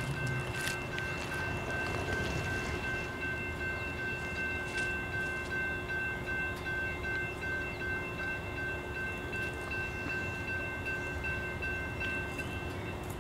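Distant train heard but not seen: a low steady hum with several high, faintly pulsing tones held over it that stop near the end.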